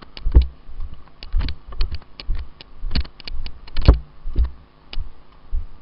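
Footsteps of a player moving fast, a low thump about twice a second, with sharp clattering clicks of gear or gun in between.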